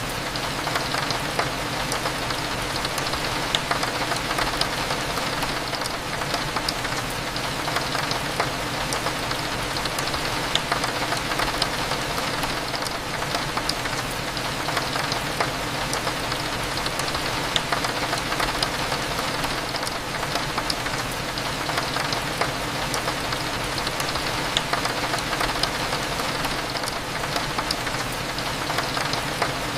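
Steady rain falling on a window, with many small drop ticks scattered through it, over a low continuous hum.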